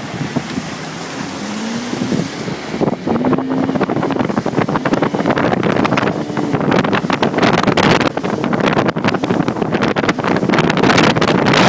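Small speedboat's 85 hp motor under way. Its note rises in the first few seconds, then gives way to louder, choppy noise of the hull on the water and wind on the microphone, growing louder as the boat picks up speed.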